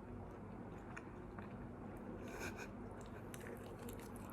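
Faint chewing of chicken nuggets and fries, with a few soft mouth clicks and crunches, over a low steady background hum.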